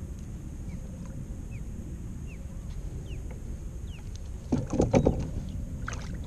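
Kayak on the water: a steady low wash of wind and water, with faint short chirps scattered through it. About four and a half seconds in comes a short cluster of loud knocks and bumps.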